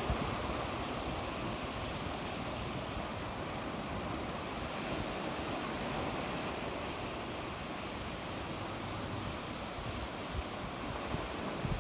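Sea waves breaking and washing on the shore in a steady wash of surf, with some wind on the microphone.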